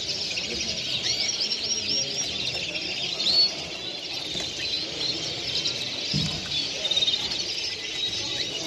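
Many caged songbirds chirping and singing at once, a dense chorus of overlapping high, quick chirps and trills.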